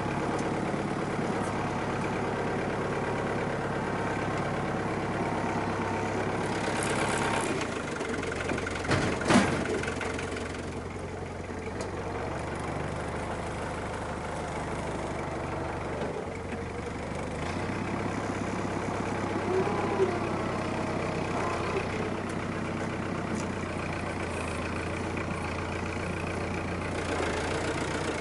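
Farm tractor's diesel engine running, its engine note shifting a few times, with a sharp metallic clank about nine seconds in and a smaller knock later.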